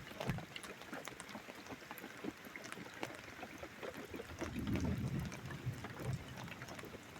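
Rain falling during a thunderstorm, with dense patter and drips, and a brief low rumble about two-thirds of the way through.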